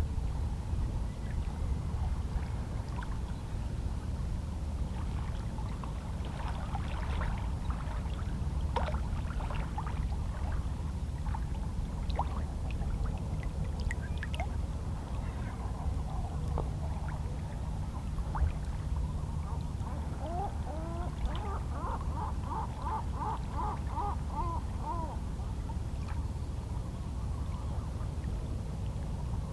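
Calm sea lapping against shoreline rocks as a steady low wash, with seabirds calling now and then. About twenty seconds in, one bird gives a run of eight or so quick repeated calls.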